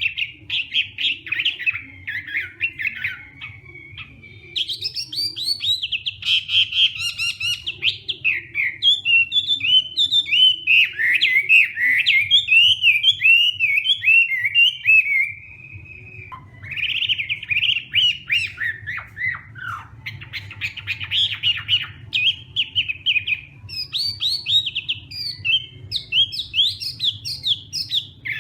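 Chinese hwamei singing a long, varied song of rapid slurred whistles and trills, with a short pause about halfway through. A faint low hum sits underneath.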